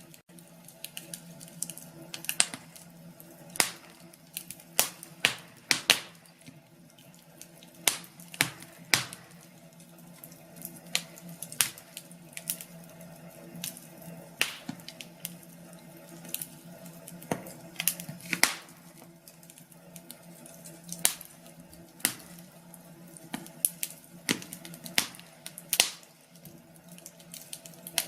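Wood fire in a fireplace crackling: irregular sharp pops and snaps, a few a second, over a steady low hum.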